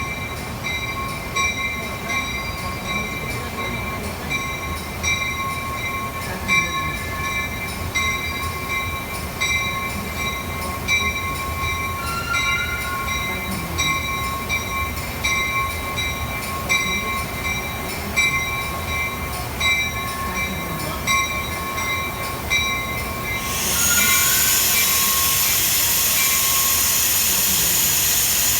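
A train rolling past with its steel wheels squealing in steady high tones over a regular ticking rhythm. About 24 seconds in, a sudden loud hiss starts and holds to the end.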